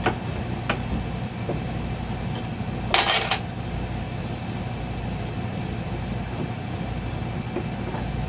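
Metal tools and steel parts clinking while a bead breaker is taken apart: a few light clicks, then one louder metallic clatter about three seconds in, over a steady low hum.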